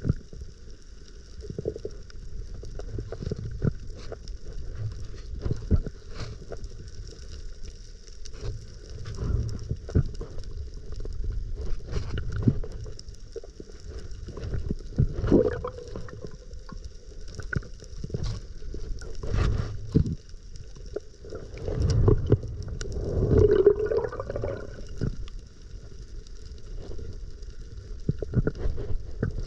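Muffled sea water sloshing and gurgling against the camera, with irregular knocks and bumps and a louder surge a little after the middle.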